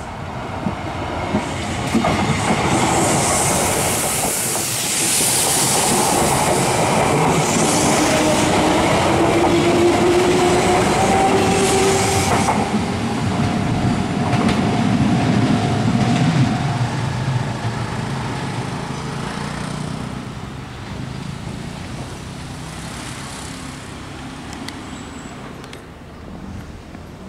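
Kintetsu electric commuter train passing close by, its wheels clacking over the rail joints. A whine rises slightly in pitch around the middle, and the train fades away over the last ten seconds.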